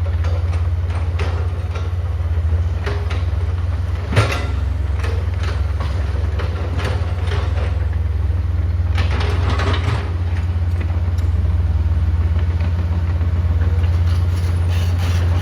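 Heavy construction machine's diesel engine running steadily, with scattered metallic clanks, a sharp knock about four seconds in and a louder clattering stretch near nine to ten seconds.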